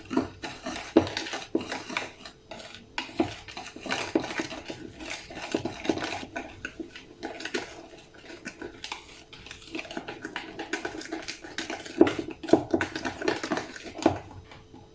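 A utensil knocking and scraping against a mixing bowl in quick, irregular strokes while cake batter of beaten egg, oil and sifted cocoa flour mix is stirred.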